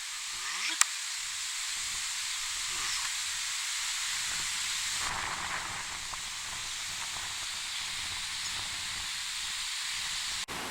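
Steady outdoor hiss with no clear source, with a single sharp click about a second in.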